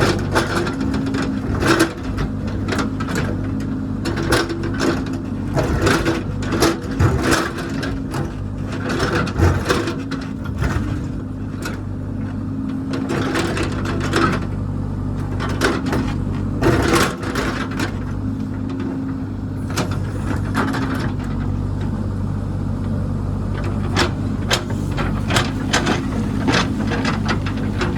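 Diesel engine of a heavy construction machine running steadily, with frequent clanks and knocks scattered through it.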